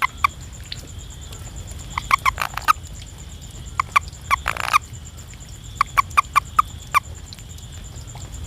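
A frog calling in bursts of short pitched croaks, three to five notes at a time every couple of seconds, with one longer rattling call about halfway through. A steady high-pitched drone and a low rumble run beneath.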